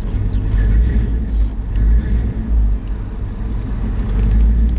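1968 Ford F250's 360 V8 engine running with a steady low rumble, just after starting.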